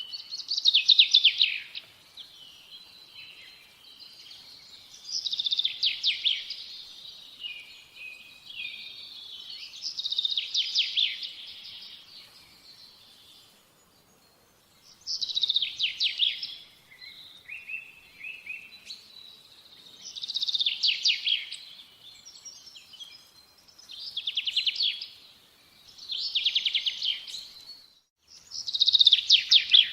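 A songbird singing the same short, rapid trilled phrase over and over, about eight times, each phrase falling a little in pitch, with a faint outdoor hush between songs.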